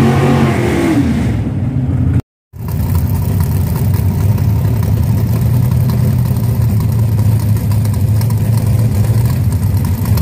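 Drag-race car engine: first an engine note falling away, then a brief cut to silence just after two seconds, then a big engine running steadily at a low pitch.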